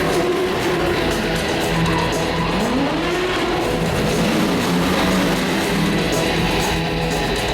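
Loud guitar-driven rock music over stunt-show car engines, one revving up with a rising pitch about three seconds in.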